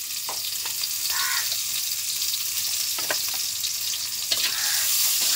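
Freshly added oil sizzling in a wok as green chillies and onion fry in it, growing a little louder. A spatula scrapes and knocks against the pan a few times.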